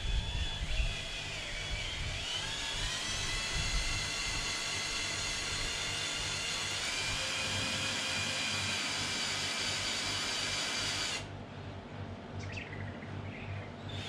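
Power drill running under load as it drills out a snapped-off hub bolt, the bit guided by a sleeve so it stays centred. Its whine rises in pitch about two seconds in, holds steady, and then cuts off suddenly near the end.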